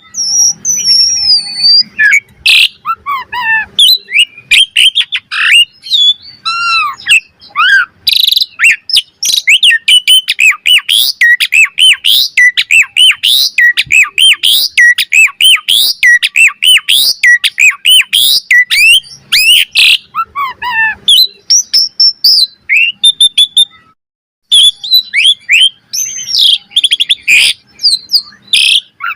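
Asian pied starling (jalak suren) singing a fast, varied stream of chirps, whistles and gliding notes, with a brief pause near the end.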